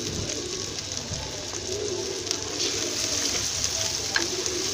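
A masala of onion, tomato and chopped green chillies frying in mustard oil in a clay pot, a steady sizzle, with a few light knocks of a wooden spoon stirring it.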